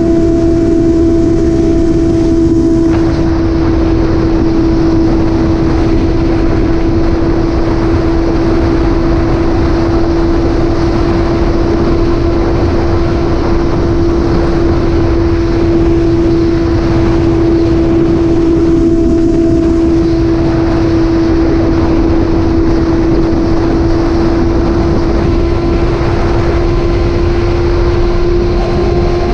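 Motorcycle engine running at steady, unchanging revs on the road: a constant hum over a dense rushing noise.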